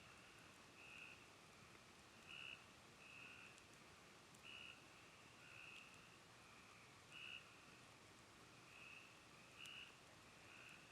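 Frogs calling faintly at night: short trilled calls repeating about once a second, louder and softer calls taking turns.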